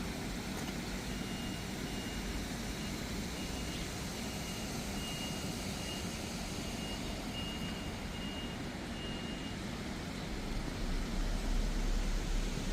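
Steady city street noise with a high electronic beep repeating about once a second for several seconds. A low vehicle rumble swells near the end.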